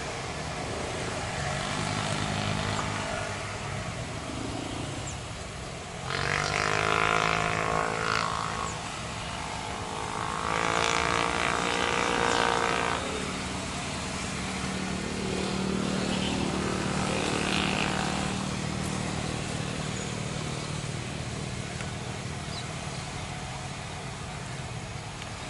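Engines of passing vehicles over a steady background rumble: one passes close about six seconds in and another about ten seconds in, each rising in pitch and then fading, with a fainter one later.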